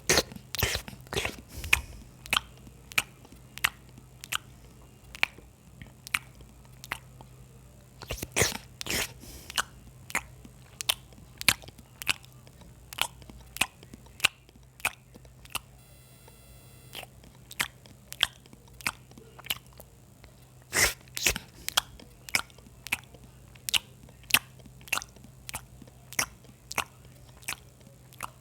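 Close-miked eating: steady wet chewing clicks, about one or two a second, from a meal of rice and kidney-bean curry with raw onion and green chillies. Louder clusters of crunchy bites come at the start, about eight seconds in and about twenty-one seconds in.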